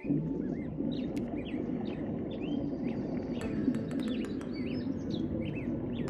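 Many small birds chirping, with short rising and falling calls coming one after another over a steady low rushing background.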